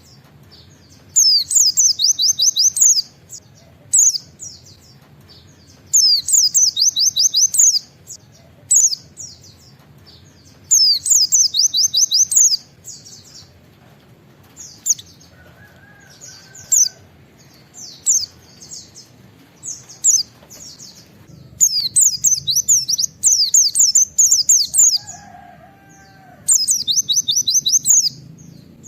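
White-eye (pleci) singing in loud bursts of rapid, high 'wit-wit' notes, each burst lasting a second or two and repeated every few seconds, with softer chirps between. This is the fast 'nembak' (shooting) phrase keepers prize as the sign of a bird in full song.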